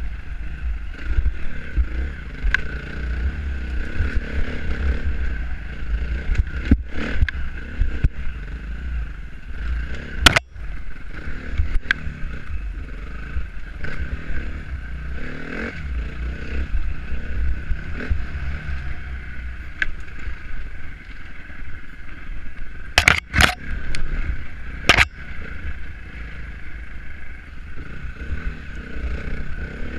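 Dirt bike being ridden off-road, its engine rising and falling under heavy wind buffeting on the microphone. There is a sharp knock about ten seconds in and a quick run of three more a little after the halfway point.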